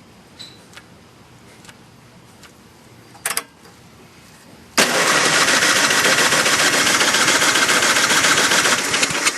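John Deere 1026 snowblower's 10 hp engine cranking over for about four seconds, starting just before halfway in, without catching: a cold start after months of storage. Before it, a few light clicks and a short rustle.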